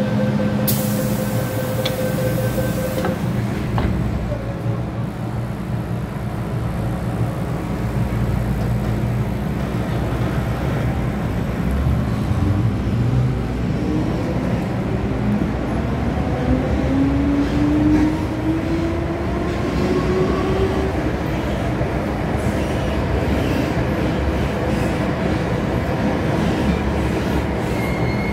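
MTR M-Train electric metro train running in a tunnel: a steady rumble of wheels on rail, with a traction-motor whine that rises in pitch from about fifteen seconds in as the train speeds up.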